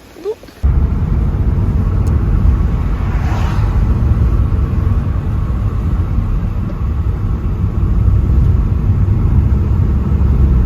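Steady low rumble of a car on the move, cutting in suddenly a little under a second in.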